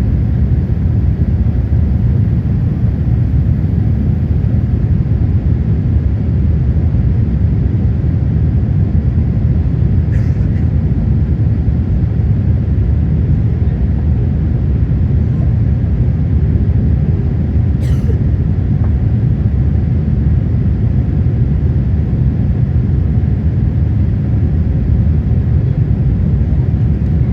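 Steady low rumble of cabin noise inside a Boeing 787-8 climbing out after takeoff, its two Rolls-Royce Trent 1000 engines running at climb power. Two faint clicks come about ten and eighteen seconds in.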